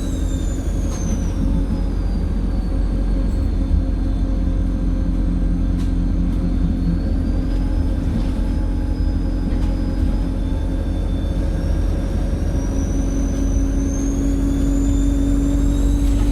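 Alexander Dennis Enviro 200 bus engine running with a loud, high-pitched turbo whistle over a steady engine drone. The whistle falls in pitch over the first few seconds, holds, then rises again from about three-quarters of the way through as the engine pulls.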